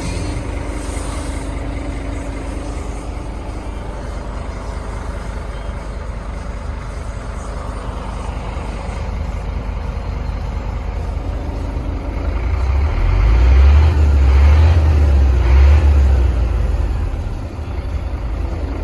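Scania P310 tractor unit's diesel engine running steadily, then revving louder for about four seconds two-thirds of the way through before dropping back.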